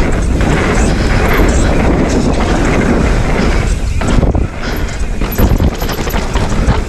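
Mountain bike ridden fast over rough dirt trail: wind buffeting the microphone, with knobby tyres rumbling over the ground and the bike rattling over bumps. The rattling gets choppier about four seconds in.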